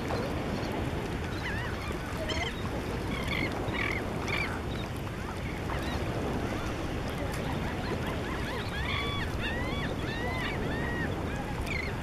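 Birds calling in short, arched chirps: one cluster from about one to five seconds in, another from about eight to twelve seconds. Under them is a steady rush of wind and surf.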